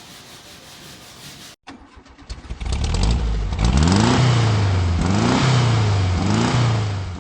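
Low shop background, then after a cut an engine cranks and catches about two seconds in and is revved three times, each rev rising then falling in pitch, before stopping right at the end.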